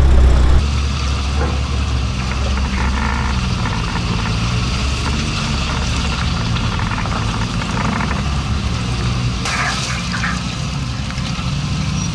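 Off-road truck's engine running steadily at low revs as it wades through deep water, with water sloshing and splashing around it.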